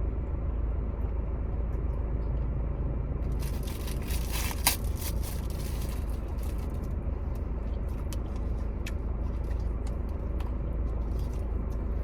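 Eating sounds over a steady low hum: a crinkling rustle from about three and a half to seven seconds in, with one sharp click in the middle, then scattered small clicks of chewing.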